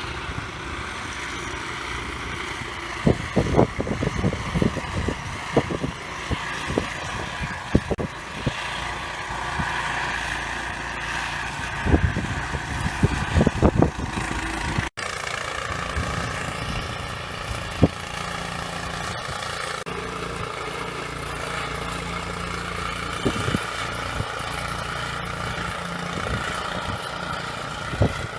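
An engine running steadily, with a cluster of sharp knocks through the first half.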